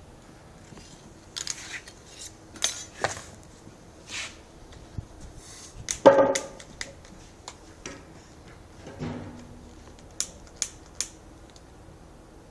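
Scattered metallic clicks and clinks as a carbide cannon is handled and readied, with a louder knock about six seconds in and three sharp clicks near the end.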